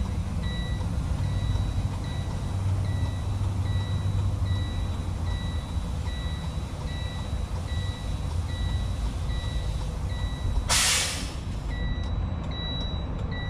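A truck's dashboard warning alarm beeping steadily, about one and a half beeps a second, over a low steady rumble, during an air brake leak check with the engine off. About eleven seconds in comes a short, loud hiss of escaping air.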